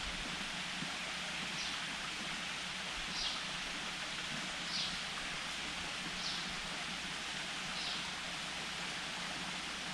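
Steady rush of flowing stream water, with a bird repeating a short, high, slightly falling call about every second and a half.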